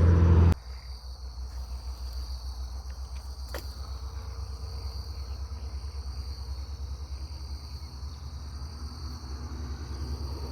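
Insects chirring steadily in a high band over a continuous low rumble of highway traffic. A louder sound cuts off abruptly about half a second in.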